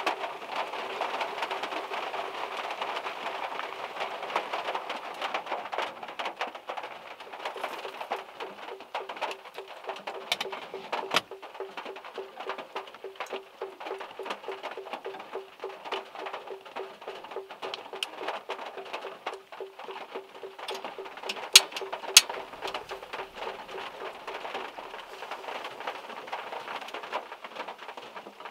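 Rain and drips from overhanging trees pattering on a small car's roof, heard from inside the car. A few heavy drops strike sharply, one about eleven seconds in and two close together a little past twenty seconds. A low, evenly pulsing tone runs underneath throughout.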